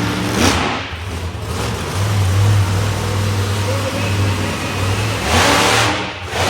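Monster truck engine running hard in an arena, with two loud bursts of throttle, one about half a second in and one near the end.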